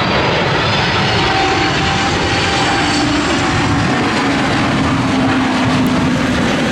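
Jet airliner's engines, a loud steady rush with a faint tone sliding slowly down in pitch as the aircraft goes by.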